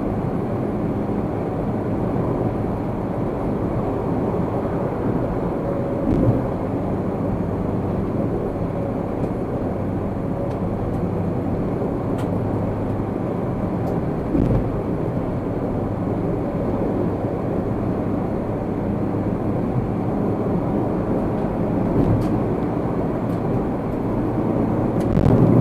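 Steady road and engine noise of a car driving, heard from inside the cabin, with two brief thumps about six and fourteen seconds in.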